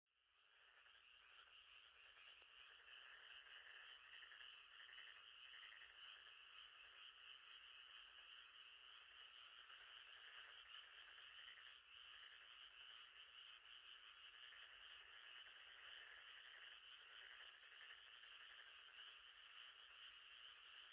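Faint, steady night chorus of frogs by a lake, fading in from silence at the start and then running evenly.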